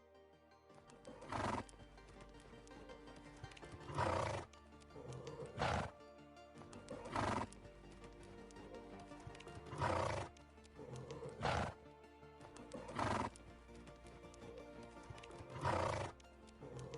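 A horse making short, noisy sounds every one and a half to three seconds, over steady background music.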